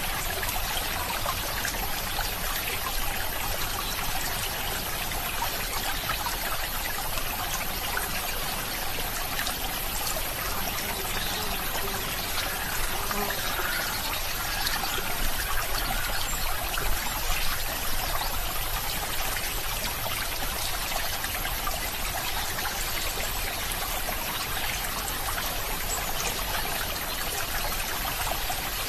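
Water running in a stream, a steady trickling flow with no change throughout.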